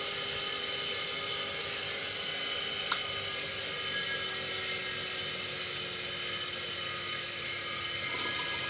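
Industrial sewing machine clutch motor running freely with a steady whine. Its pitch settles after spinning up and drifts slightly lower. A single sharp click comes about three seconds in.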